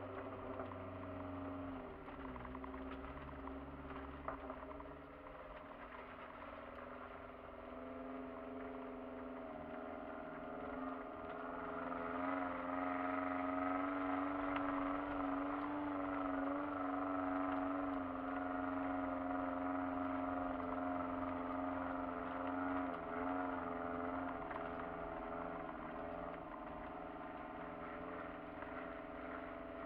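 Kia Sportage engine running under load as it drives up a dirt track, heard from inside the cabin. It grows louder about a third of the way in and wavers in pitch, with a few knocks near the start.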